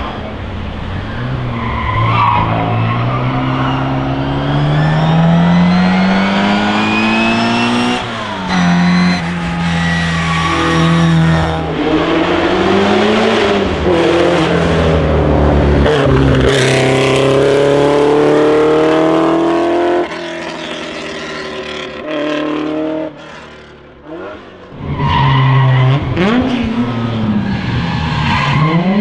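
Classic racing cars' engines running hard up a hillclimb, the pitch climbing through each gear and dropping back at the shifts several times. The engine note fades for a few seconds before another loud run picks up near the end.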